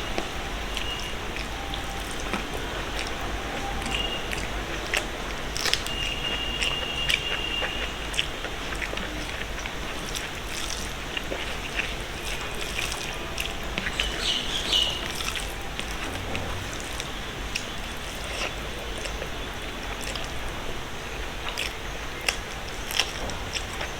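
A person eating a rice-and-vegetable meal close to the microphone: chewing and small mouth sounds, with short scattered clicks throughout over a steady background hiss.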